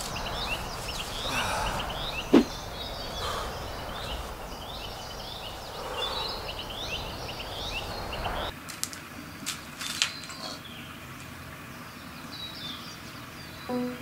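Small birds chirping and singing in quick repeated short notes over a soft outdoor hiss, with one sharp click about two seconds in. The background hiss drops suddenly a little past halfway, and the birdsong thins out after that.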